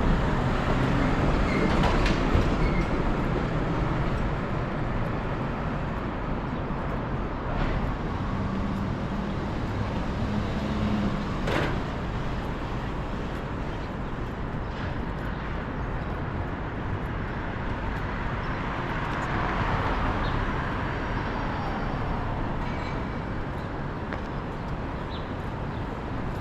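Steady road traffic noise from passing vehicles, swelling about twenty seconds in, with a few scattered light clicks.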